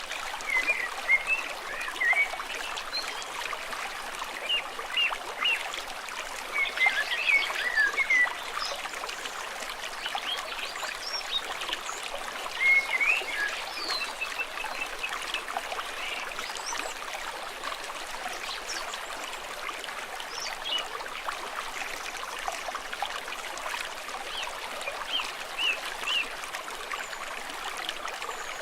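A stream trickling steadily over stones, with short bird chirps breaking in over it in a few brief clusters.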